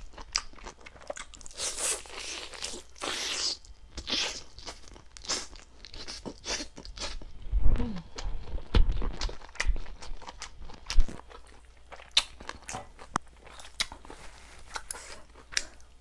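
Close-miked chewing and crunching of chicken in the mouth: a steady run of wet bites and crisp crunches, with a few dull low knocks around the middle.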